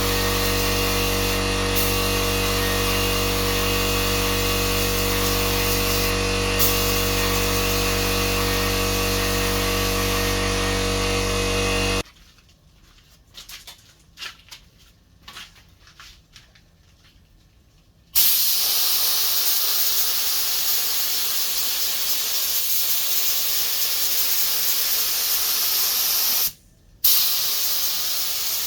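A heat gun running steadily, its motor hum under the rush of air, then cutting off suddenly. After a few quiet knocks, spray adhesive hisses in a long, even jet, with a short break near the end.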